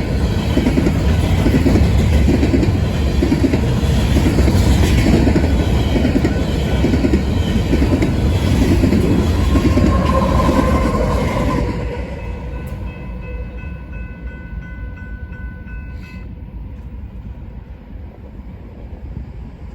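Empty BNSF grain hopper train rolling past, its wheels beating a steady clickety-clack over the rail joints about once a second under a heavy rumble. About twelve seconds in the sound drops away to a fainter rumble with a few thin steady tones.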